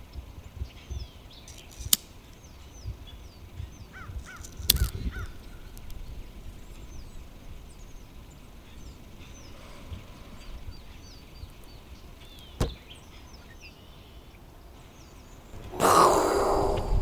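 Many birds calling and cawing, a film sound effect of a massing flock, with a few sharp knocks. Near the end a loud, harsh noise bursts in for about a second.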